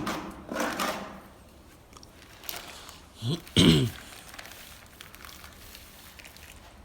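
Putty knife spreading and scraping a sand-mixed filler paste over a surface: soft, wet scraping and squishing, strongest in the first second. A brief vocal hum about three and a half seconds in is the loudest sound.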